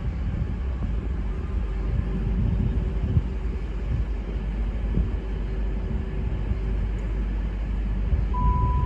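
Passenger train rumbling at the platform, a low steady rumble with a faint steady hum that stops about two-thirds of the way through. Just before the end, the first clear note of a station announcement chime sounds.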